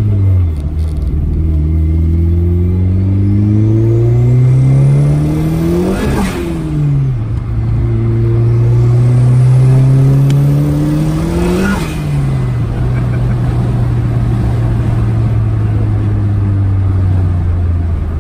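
Big-turbo 1.8 20-valve four-cylinder in a Mk1 VW Golf, heard from inside the cabin, pulling hard through two gears. The revs climb for about five seconds, drop at a gear change, climb again, drop at a second change, then hold steady as the car cruises, with a high whistle rising with the revs on each pull.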